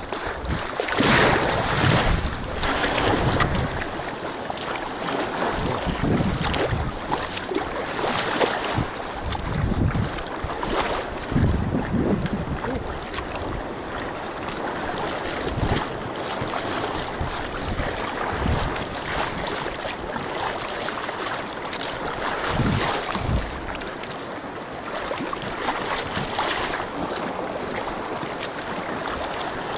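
Water splashing and sloshing around a Feathercraft K1 folding sea kayak, with wind rumbling on the microphone in irregular gusts.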